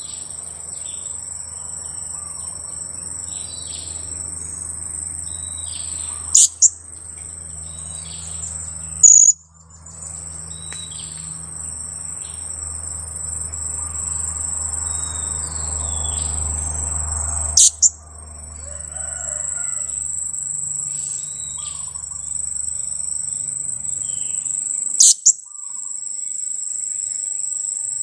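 Four short, sharp, high-pitched 'kiak' calls of a two-week-old blue-crowned hanging parrot (serindit) chick, the loudest sounds, over a steady high insect drone with fainter chirps in between. A low hum underneath stops near the end.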